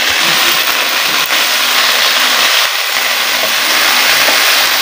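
Cubed potatoes frying in hot ghee in a frying pan: a loud, steady sizzle.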